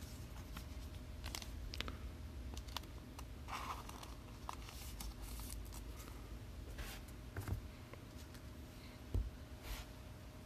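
Faint rustling, scraping and light clicks of trading cards and their packaging being handled, with a soft thump about nine seconds in.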